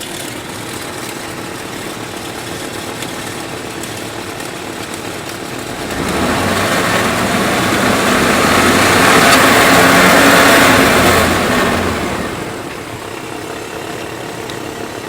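1998 Chevrolet K2500 pickup's Vortec V8 idling, then revved up about six seconds in, held at raised speed for several seconds, and let drop back to idle. Under it runs the noise of the alternator, which the owner takes for a bad bearing.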